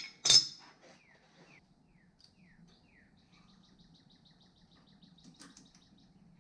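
A sharp clank just after the start, likely a tool or suspension part being set down, then faint bird chirps: a few short falling notes followed by a quick run of high chirps.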